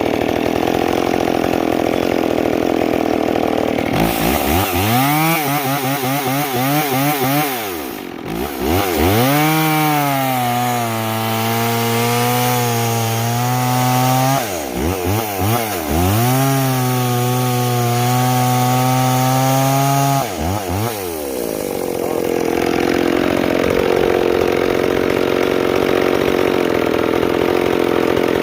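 McCulloch Power Mac 610 two-stroke chainsaw running loud. About four seconds in, its harsh high-speed sound gives way to a wavering, falling pitch. It then holds a steady, lower note in two long stretches, broken by brief drops in speed, before going back to the harsher high-speed sound. The saw is running well on its carburetor.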